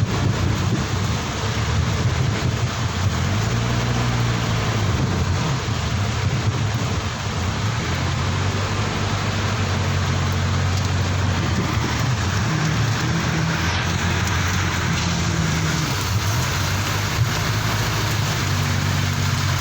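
Steady heavy rain falling, with the low, steady hum of a vehicle engine running underneath.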